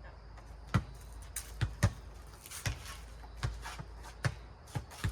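A playground ball bouncing and being struck in a four-square game: a run of about ten sharp, irregular thuds.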